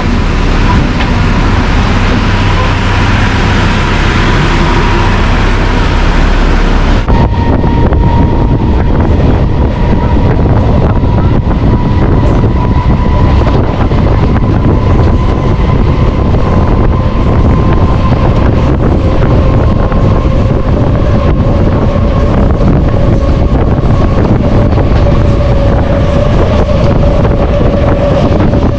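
MEMU electric passenger train running at speed, a steady loud rumble of wheels on the rails with wind buffeting the microphone. A faint steady whine runs through it, a second one rising slowly in pitch in the later part, and the sound changes abruptly about seven seconds in.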